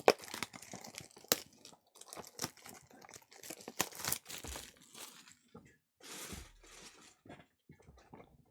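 A trading card pack's wrapper being torn open and crinkled by hand, an irregular run of crackles and rustles.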